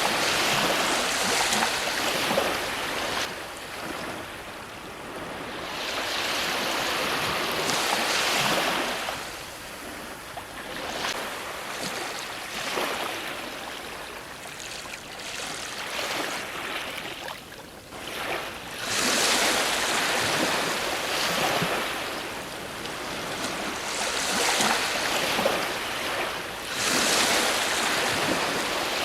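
Ocean waves breaking on a shore: a continuous wash of surf that swells and falls back, with the loudest breaks around 8 seconds, after about 19 seconds and near the end.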